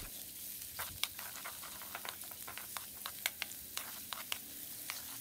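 Minced garlic and celery roots frying in hot oil in a wok: a soft, steady sizzle with scattered crackles and pops, stirred with a wooden spatula.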